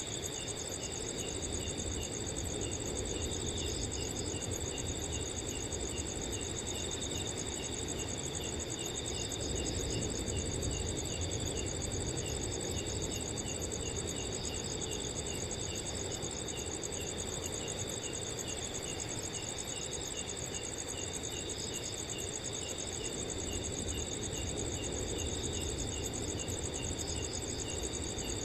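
Several crickets chirping together: a steady high trill over a faster run of short, evenly spaced chirps, with a low rush of wind beneath.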